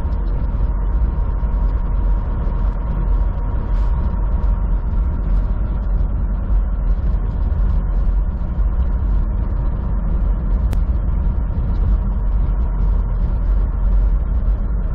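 Steady low drone of a semi truck's diesel engine heard from inside the cab, with a faint steady whine on top and one short click about eleven seconds in.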